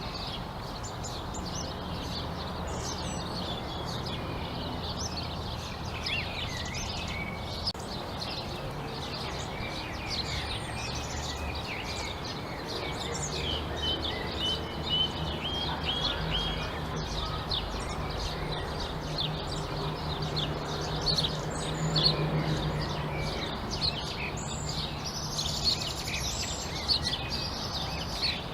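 Several songbirds chirping, trilling and calling over one another in quick short phrases. Beneath them runs a low steady hum that swells through the middle and is loudest about two-thirds of the way through.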